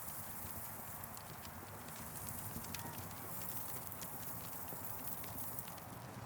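Wood campfire crackling: irregular sharp snaps and pops over a steady hiss of burning.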